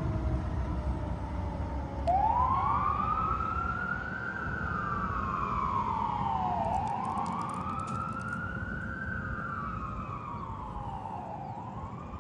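Fire engine siren wailing: it starts abruptly about two seconds in with a quick rise, then sweeps slowly up and down, each cycle about four and a half seconds, over the rumble of the truck. A lower tone falls away during the first two seconds.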